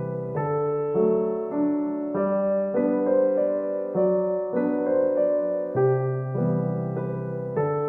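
Soft background piano music: gentle chords and notes changing about every second.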